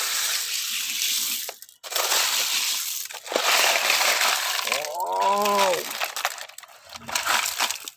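Sand being dug and shifted around a buried toy truck, a continuous grainy hiss with two short breaks in the first few seconds. A short "wow" is spoken a little over five seconds in.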